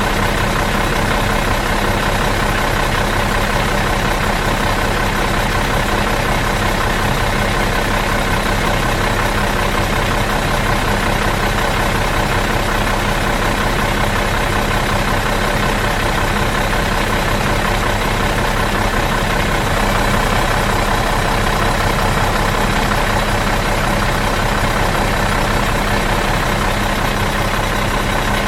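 Bus diesel engine idling out of gear, a steady, even hum that doesn't change.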